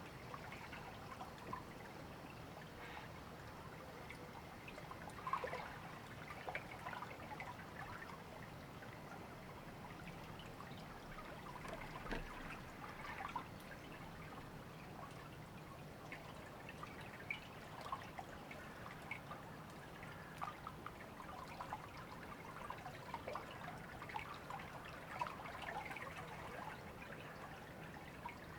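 River water trickling and babbling steadily over stones, with small irregular splashes throughout.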